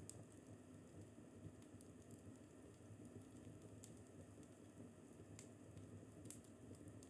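Fireplace crackling faintly: a low steady rush of the fire with a handful of sharp, scattered pops.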